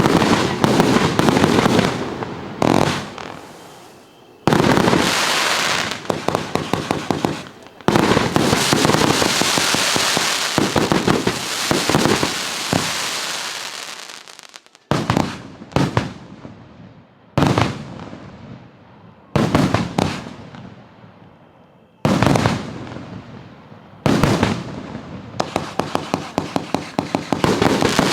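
A 328-shot display fireworks cake firing: volley after volley of rapid launch shots and crackling bursts. Each volley starts suddenly and fades away over a second or two. Several volleys follow one another, some in quick strings of distinct shots.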